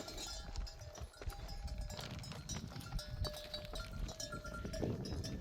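A flock of sheep on the move: a dense patter of hooves, with livestock bells ringing among them.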